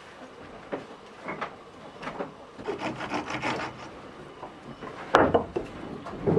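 Irregular rubbing and scraping strokes on wood, with a sharp knock about five seconds in.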